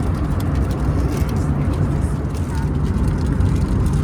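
Steady cabin noise of an Airbus A321neo in flight: a constant low rumble of engines and airflow, heard from a window seat.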